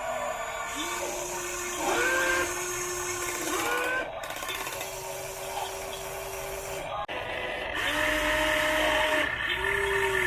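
Electric motors of an RC model excavator whining in repeated runs of one to three seconds. Each run starts with a quick rising pitch, holds steady, then stops before the next.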